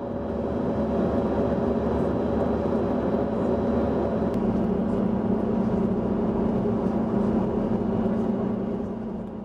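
Steady drone of a running engine-driven vehicle, a noisy rumble with a constant low hum, fading out near the end.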